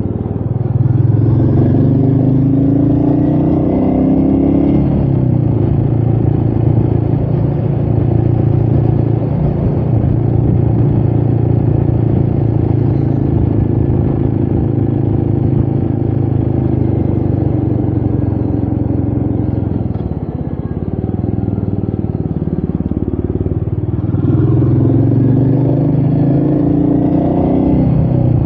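Royal Enfield Meteor 350's single-cylinder engine running on the move, rising in pitch under acceleration about a second in, holding a steady cruise, easing off briefly about two-thirds through, then rising again near the end. Wind noise on the microphone runs underneath.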